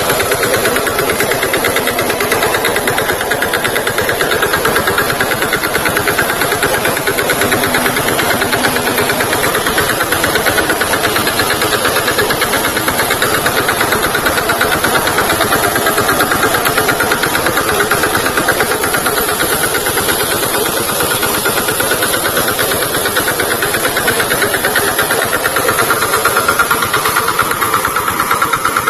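VST Shakti tractor's diesel engine running steadily, with an even, unbroken drone.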